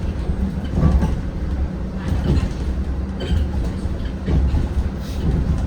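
Zhongtong N12 bus in motion, heard from inside the cabin: a steady low rumble with light knocks and rattles.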